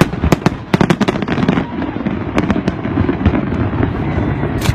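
Fireworks display going off: a quick run of sharp bangs and crackles for the first second or so, then scattered bangs over a continuous low rumble, with a loud bang near the end.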